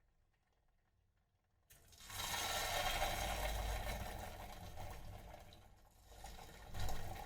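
Batter-coated paneer cubes frying in hot oil in an electric kettle: sizzling breaks out suddenly about two seconds in, loud at first and slowly dying down, then surges again briefly near the end.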